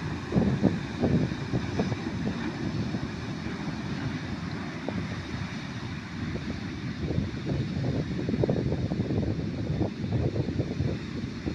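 Wind buffeting the microphone in uneven gusts, over the steady wash of ocean surf.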